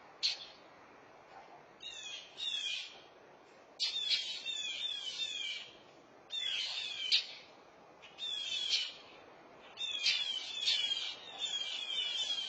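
Mockingbirds calling in alarm: bursts of quick, falling chip notes, each burst about a second long, with a few sharp single calls, repeated every second or two and coming thicker near the end.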